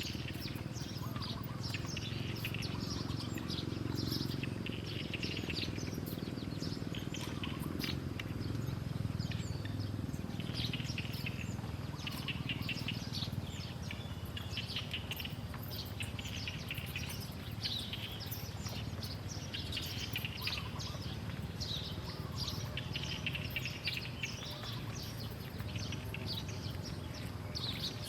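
Small songbirds chirping in short, quick high twitters that come again every second or two, over a steady low rumble.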